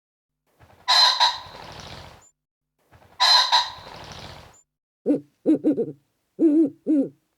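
A loud honking bird call, the same call heard twice about two seconds apart. Then a run of short, low, wavering hoots near the end.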